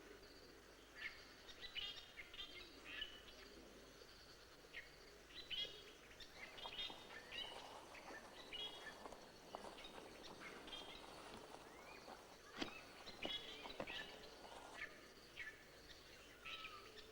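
Faint forest ambience with many short, high bird chirps and calls scattered throughout, and a couple of sharp clicks around the middle.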